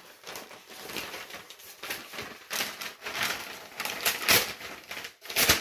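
Packaging being handled and torn open: irregular crinkling and crushing rustles, with the loudest bursts in the second half.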